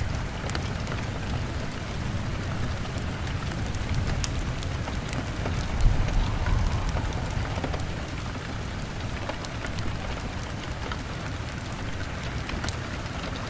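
Heavy rain pattering on a window, mixed with a crackling log fire that gives scattered sharp crackles over a steady low rumble. A deeper rumble swells briefly about six seconds in.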